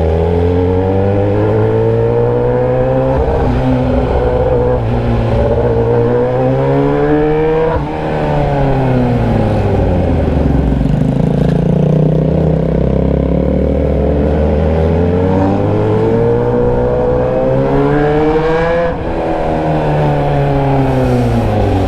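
Motorcycle engine running with no muffler, only an open pipe, loud and raw. It pulls up through the revs for several seconds, backs off sharply about eight seconds in with the pitch sliding down, then climbs again until another sharp lift-off near the end.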